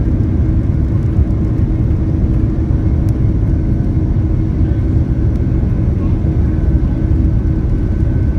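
Airliner at take-off: a steady low rumble of engines and rushing air, with a steady hum running through it.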